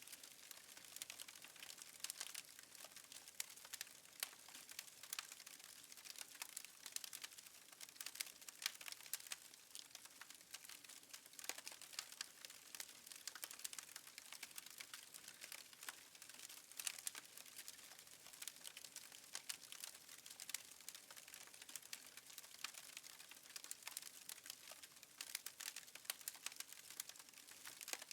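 Faint crackling of a wood fire in a fireplace: dense, irregular small pops and snaps over a light hiss.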